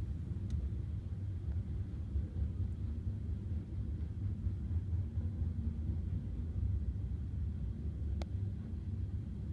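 Union Pacific grain train rolling past, a steady low rumble, with a single sharp click about eight seconds in.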